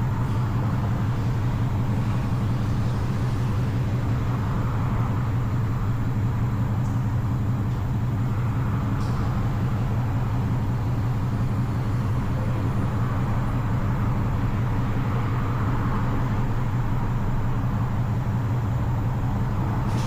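A car engine idling steadily: a low, even hum that does not change.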